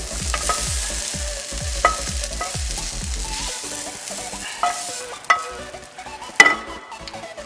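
Hot fried masala sizzling as a wooden spatula scrapes it out of a frying pan into a kadai of cooked squid rings and stirs it in. The sizzle fades out about halfway through, and then comes a few sharp knocks of the spatula against the pan rims, the loudest about six and a half seconds in.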